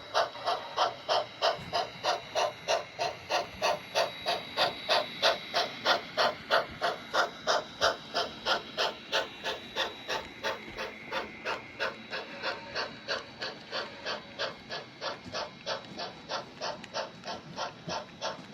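Steam-locomotive chuffing from a sound-equipped On30 model steam locomotive, an even beat of about three chuffs a second. It is loudest in the first half and grows fainter in the second.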